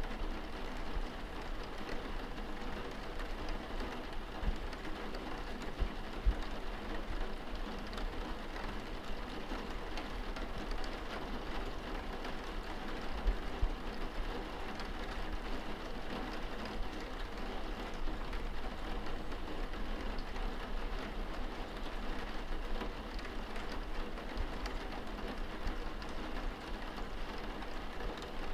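Steady rain pattering on window glass, heard from inside the room, with a couple of brief low thuds.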